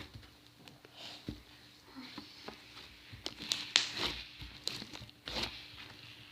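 Slime being squished and pulled by hand, with scattered small sticky clicks and pops and a few short squelching swells.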